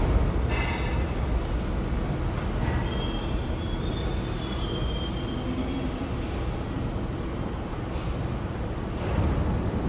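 New York City subway train running through the station with a steady heavy rumble, its wheels squealing in thin high tones partway through.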